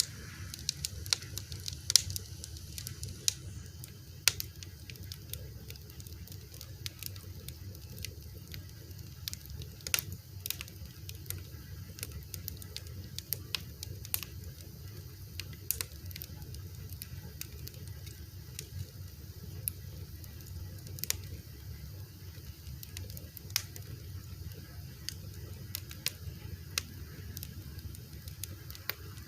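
Fire crackling: irregular sharp pops and snaps, a few of them louder, over a steady low rumble.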